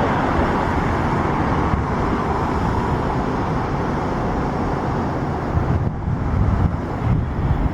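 Steady outdoor airport noise: a broad rumble of jet engines and traffic, with wind gusting on the microphone in the last couple of seconds.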